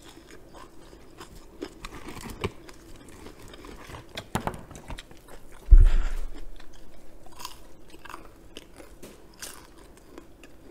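Chewing and crunching on crisp fried chicken, with scattered short crunches. About six seconds in there is one loud low thump.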